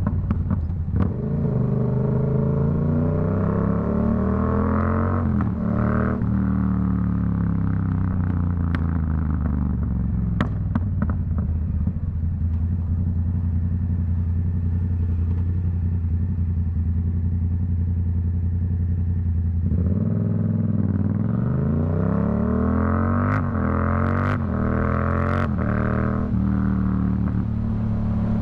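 Yamaha MT-07's CP2 crossplane parallel-twin through a Black Widow aftermarket exhaust, revving up for the first few seconds, then dropping revs with sharp exhaust pops. It holds a long steady low-rev stretch, then revs up again about twenty seconds in, with a cluster of pops and bangs near the end.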